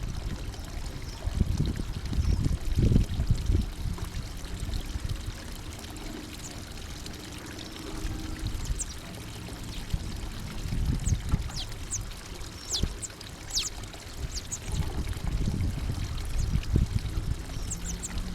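Small birds at a feeder giving brief, thin, high-pitched calls that sweep downward, several in the middle and a few more near the end, over a continuous low rushing noise that swells and fades.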